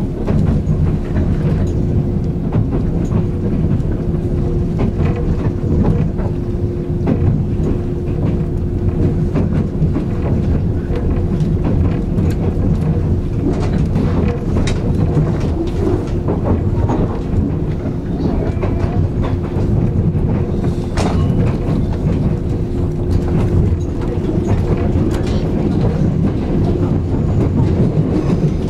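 Interior of a 189-series electric train running: a steady rumble of wheels on rail with the clickety-clack of rail joints, over a constant hum.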